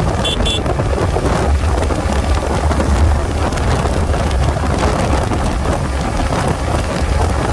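Wind buffeting the microphone and a steady low rumble of road noise on a motorcycle riding at highway speed. Two short high beeps come right at the start.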